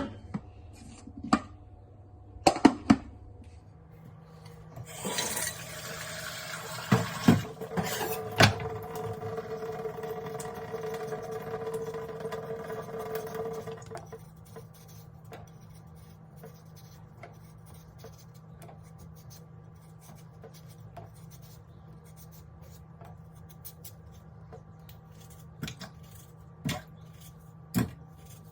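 Kitchen tap running water into a pot for about nine seconds, with a few knocks of the pot against the sink, then a steady low hum and a few light clicks.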